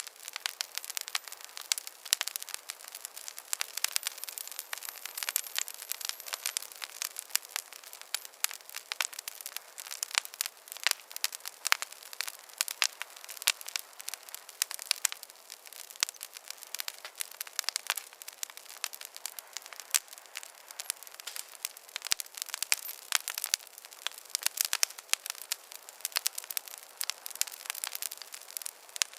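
Campfire crackling steadily: a dense, irregular run of small sharp pops and snaps over a faint hiss.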